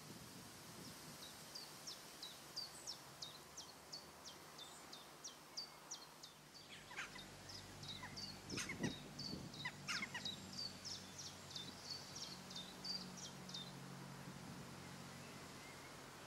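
A small songbird singing a long run of short, high, down-slurred notes, about two a second. Around the middle come a few lower, harsher bird calls, and a faint low hum starts about six seconds in.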